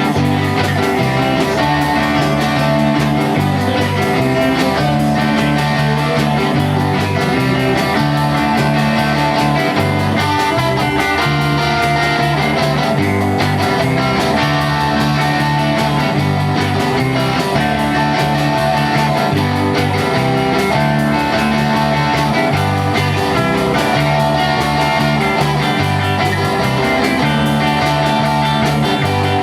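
A rock band playing an instrumental stretch with no singing: guitar over a bass line that changes note every second or two, at a steady level.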